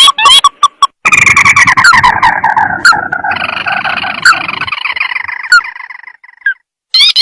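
Recorded crake (tikusan sawah) calls used as a hunting lure. A quick series of short rising notes gives way about a second in to a long chattering trill that falls in pitch and fades out, with a brief call again near the end.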